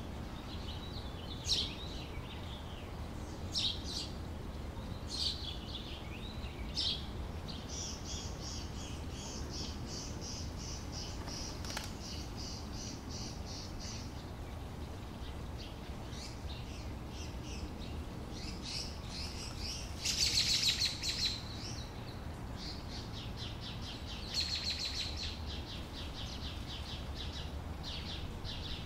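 Small birds chirping and trilling: short sharp chirps every second or two, then longer runs of rapid repeated notes, the loudest about two-thirds of the way through. A steady low rumble of background noise lies underneath.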